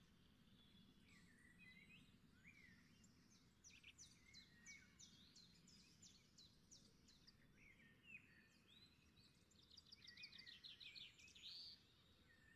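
Near silence, with faint birds chirping in the background: quick chirps that sweep down in pitch, in runs about three seconds in and again around ten seconds, over a low steady hum.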